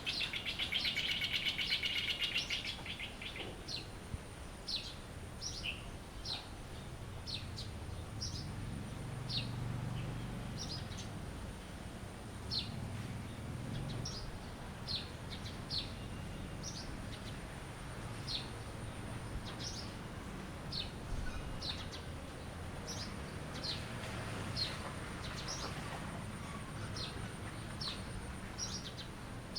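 Songbirds singing: short, high, downward-sweeping chirps repeated about once or twice a second, with a rapid buzzy trill in the first few seconds. A faint steady high-pitched tone runs underneath.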